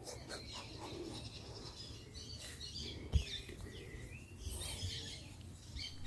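Faint birds chirping now and then, with a single sharp tick about three seconds in.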